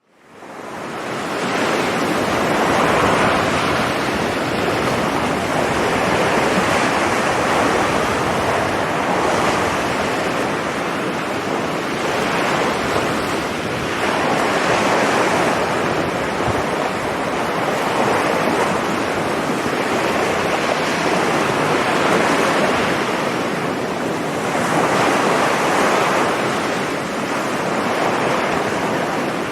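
Sea surf breaking on a sandy beach: a continuous rush of waves that swells every few seconds as each wave comes in, fading in at the start, with wind buffeting the microphone.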